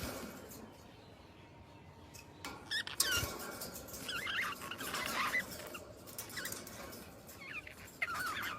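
Small birds twittering in quick, high chirps, sparse at first and busier from about four seconds in and again near the end, with a sharp click about three seconds in.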